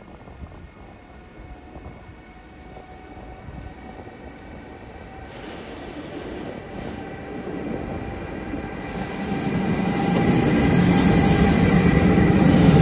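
Electric locomotive hauling a passenger train, drawing near and passing close by: a low rumble with a few steady whining tones, growing louder from about halfway and loudest as the locomotive goes by near the end.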